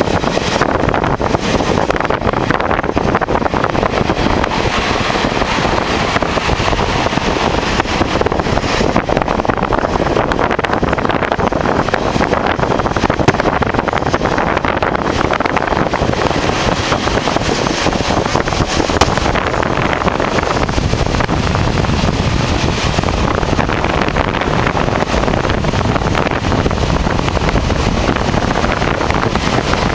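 Loud, steady running noise of a train heard on board, with wind buffeting the microphone.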